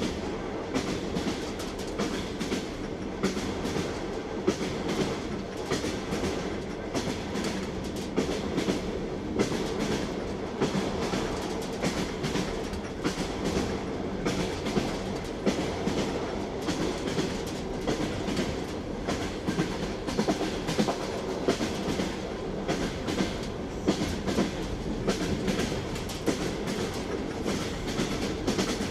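Train wheels clattering over the rail joints: a steady rumble with frequent sharp clacks throughout.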